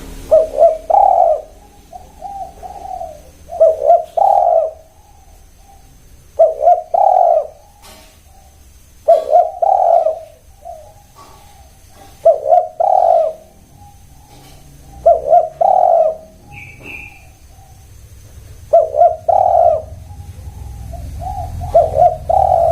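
Spotted dove (tekukur) cooing in repeated phrases, about one every three seconds, each a few short notes then a longer held coo. A brief higher chirp comes once, about two-thirds of the way through.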